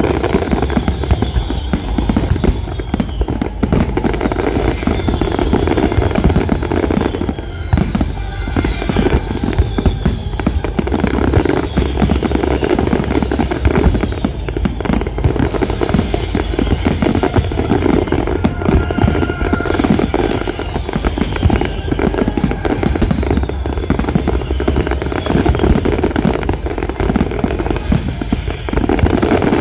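Fireworks display in a dense, continuous barrage: rapid bangs and crackling from aerial shells bursting one after another, with a few whistles falling in pitch.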